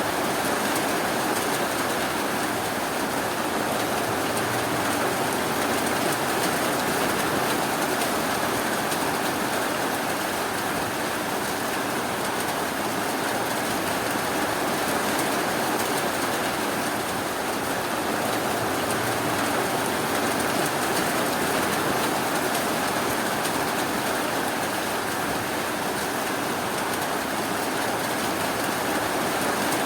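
Steady rainfall, an even unbroken hiss that holds level throughout.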